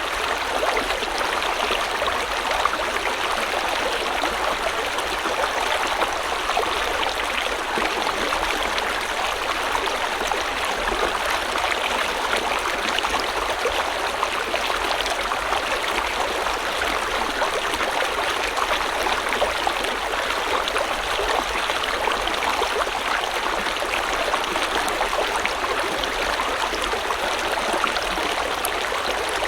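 River water flowing and babbling steadily, an even rushing with fine splashing detail.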